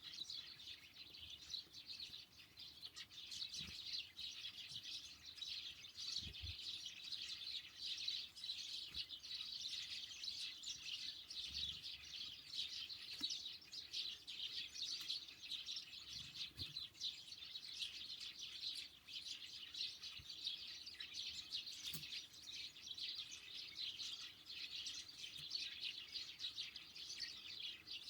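Many small songbirds chirping at once, a dense, continuous chatter of short high notes, with a few faint low thumps.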